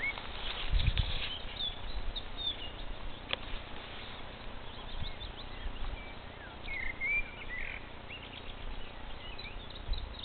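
Songbirds singing outdoors: scattered short chirps and whistled phrases, with a clearer phrase about seven seconds in, over a steady hiss. A few low bumps sound on the microphone about a second in.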